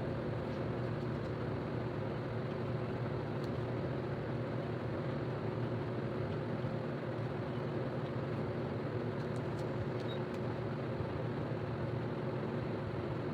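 Steady machine hum with a constant low drone, unchanging throughout, with a few faint ticks.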